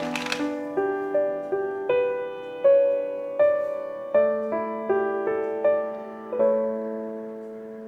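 Gentle solo piano background music: single notes and chords struck about every half second and left to ring, settling into one held chord near the end.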